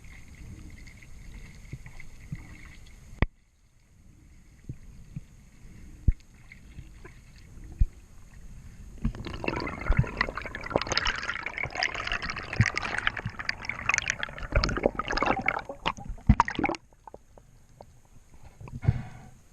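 Water sloshing and bubbling, picked up by a camera in the water, with scattered clicks. A dense crackling, splashing burst runs for several seconds in the middle and stops abruptly.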